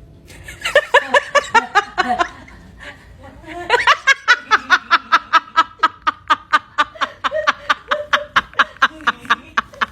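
A person laughing in rapid, repeated bursts of about four or five a second, with a short pause about two seconds in before a longer run of laughter.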